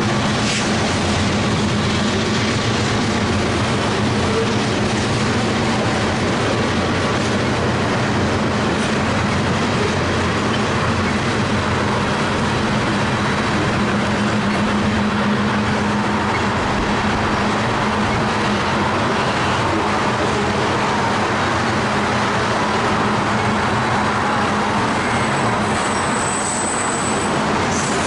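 Freight cars of a passing mixed freight train, lumber flatcars and tank cars, rolling by with a steady rumble of steel wheels on the rails. A brief thin high whine comes near the end.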